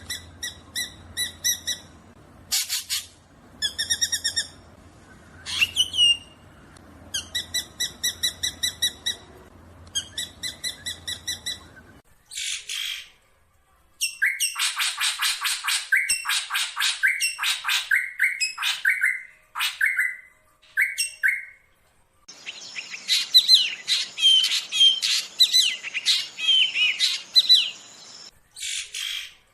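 Black drongo calling: short bursts of rapid, evenly repeated notes, then faster, denser runs of chattering, scratchy notes and short whistles.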